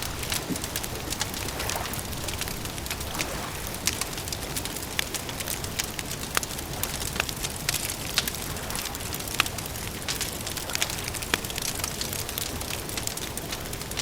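Campfire crackling: irregular sharp pops and snaps over a steady hiss and low rumble.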